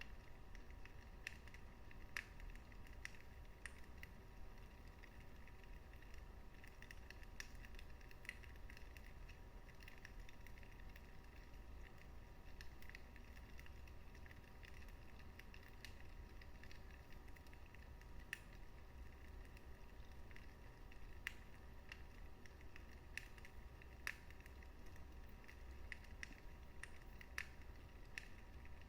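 Wood fire burning in a fireplace: faint, irregular crackles and pops over a soft, low rumble.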